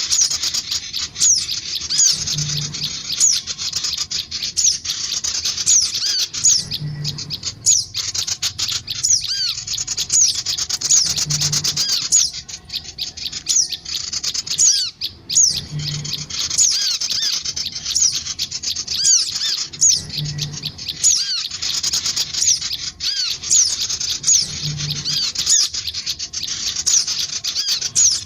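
Sogon birds, male and female, chirping rapidly and continuously in high, busy calls, played as a birdsong lure track. A soft low thump recurs about every four and a half seconds.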